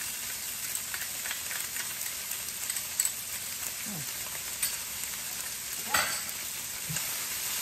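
Chicken strips frying in hot olive oil in a skillet, a steady sizzle, with a couple of sharp clicks about three and six seconds in.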